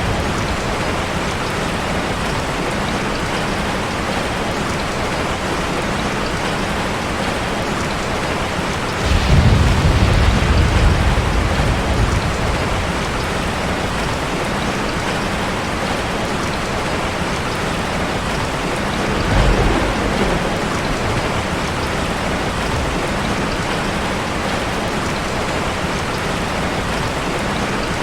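Waterfall's steady rushing water. Two deep rumbles swell up over it, about nine seconds in and again around twenty seconds.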